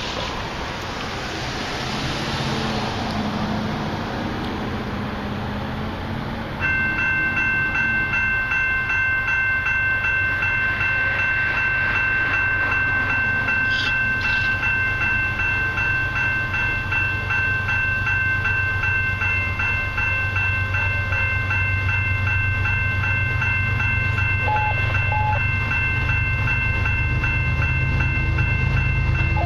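Approaching diesel freight locomotive with its low engine rumble building. About a third of the way in, a steady ringing of several high tones starts, pulsing rapidly and evenly, and carries on as the train draws closer.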